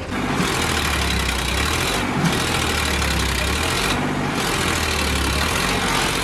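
Sonalika 745 DI tractor's diesel engine running loud and steady. It comes in abruptly at the start and holds an even level.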